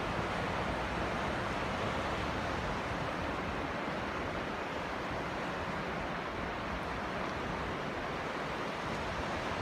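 Steady rush of falling water from a small waterfall, with a low, uneven rumble of wind on the microphone underneath.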